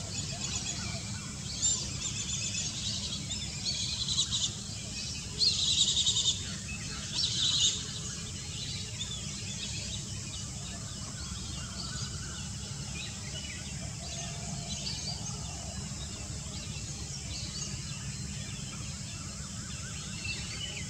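Small birds chirping and trilling high-pitched in several bursts through the first eight seconds, loudest around six seconds in, then only faint scattered chirps. A steady low background rumble runs underneath.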